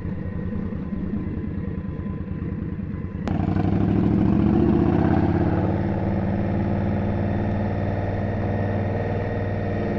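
Indian Scout's V-twin engine ticking over with a low, pulsing beat, then a sharp click a little over three seconds in, after which the engine grows louder, rises in pitch and settles into a steady run as the motorcycle pulls away.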